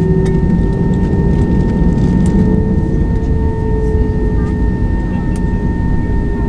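Steady hum of an Airbus A320 on the ground, heard from inside the cabin, with a faint whine that rises slightly in pitch; scattered light clicks.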